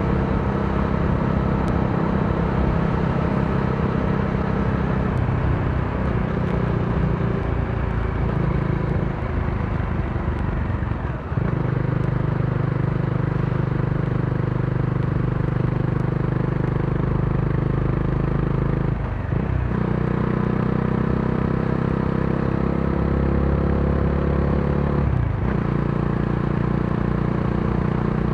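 Modenas Dominar D400's single-cylinder engine running at a steady cruise, its note briefly breaking and shifting at gear changes about 11, 19 and 25 seconds in.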